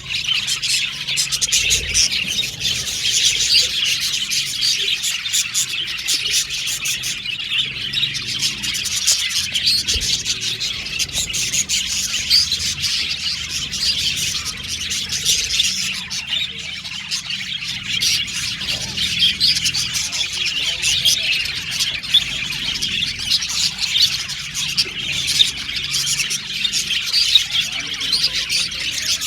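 A group of budgerigars chirping and warbling continuously, many short overlapping calls with no pause.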